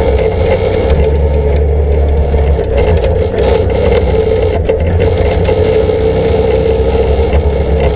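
Can-Am Outlander 800 ATV engine running at a steady, even speed while riding rough trail, with some scraping and rattling noise.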